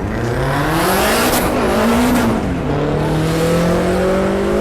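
A performance car's engine on the track, revved hard up and down twice, then held at a steady, slowly rising pitch.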